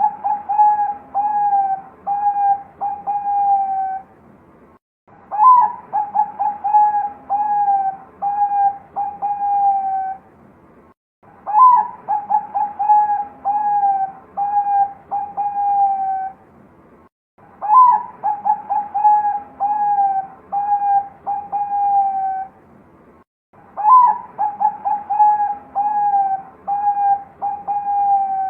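Zebra dove (Bangkok-bred perkutut) cooing, loud and clear. Each song phrase opens with a high note and a quick run of short staccato coos, then settles into several longer, slightly lower coos. The phrase repeats about every six seconds with a short pause between.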